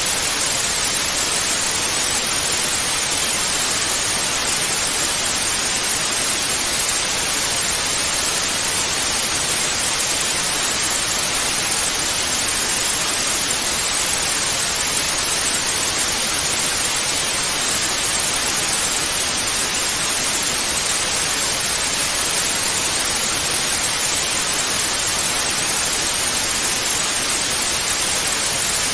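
Analogue TV static: an even, steady hiss of white noise, strongest in the upper range, unchanging throughout.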